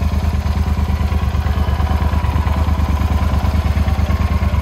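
2016 Yamaha Super Ténéré's 1,199 cc parallel-twin engine idling steadily.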